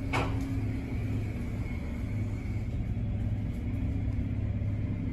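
Steady low rumble and hum of an idling car and car-wash tunnel machinery as the car waits to enter the wash, with a brief hiss just after the start.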